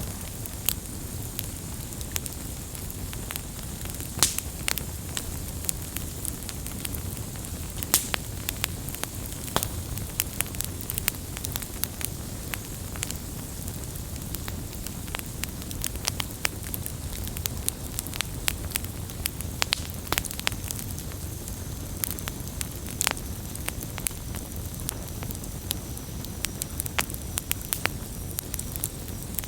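Campfire burning with a steady low rush of flames and frequent irregular crackles and pops, a few sharper pops standing out about 4 and 8 seconds in.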